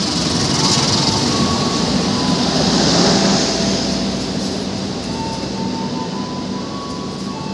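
Diesel-hauled passenger train passing close by: a steady rush of wheels on rail over the low hum of the locomotive's engine. It is loudest about three seconds in and eases gradually as the coaches go by.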